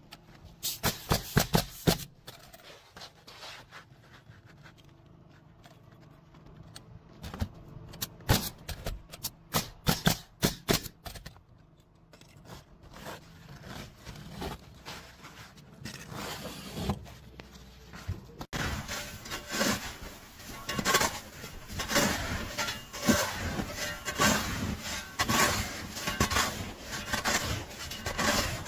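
Irregular knocks, clicks and scraping of construction work. About eighteen seconds in the sound changes abruptly to a denser, steadier noise with frequent knocks.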